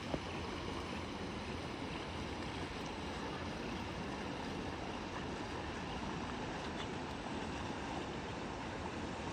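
Steady rushing noise of water and wind, with one short click just after the start.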